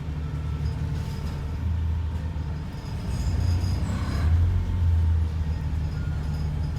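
Diesel engine of an ADL Enviro 400 double-decker bus heard from inside, running with a steady low drone that grows a little louder three to four seconds in.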